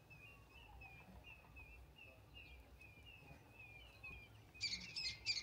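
Wild birds calling in open bush: a faint, high, short falling chirp repeated about twice a second, then about four and a half seconds in a louder, rapid run of bright chirps from a nearer bird.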